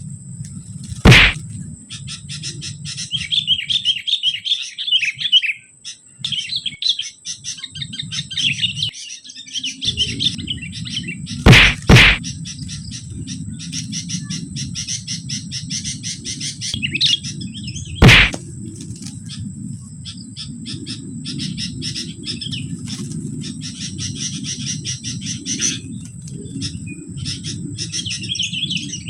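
Sooty-headed bulbuls chirping in rapid, busy runs of notes. Four loud sharp knocks cut through: one about a second in, two close together near the middle, and one a few seconds later, over a steady low rumble.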